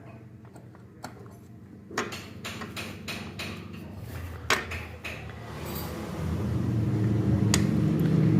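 Metal tools and engine parts clicking and clinking while a camshaft and timing chain are fitted, with a sharp click about four and a half seconds in. From about six seconds a low hum swells and becomes the loudest sound.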